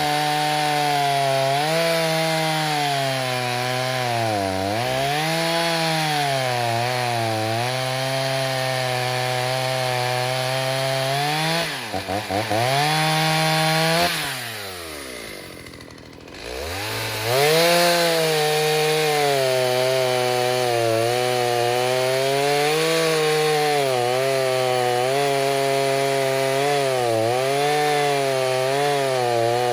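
Rebuilt Stihl 029 chainsaw with a 45 mm cylinder, running at full throttle and cutting wood on its first tank of fuel since the rebuild. The engine pitch dips and recovers as the chain loads in the cut. About halfway through it stutters, winds down almost to idle, then revs back up and cuts on.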